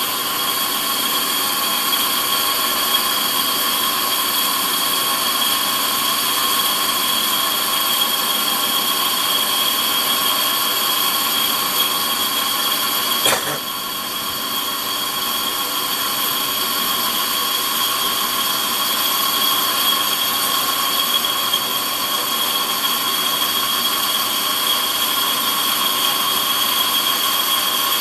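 Warco metal lathe running steadily through a finishing cut on a 30 mm bore, with a steady high-pitched whine over the machine noise. One sharp click comes about thirteen seconds in, after which it is briefly quieter.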